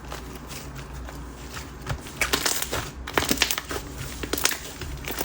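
Whip-style slime pressed and stretched by hand. From about two seconds in it gives a rapid run of sticky clicks and small pops.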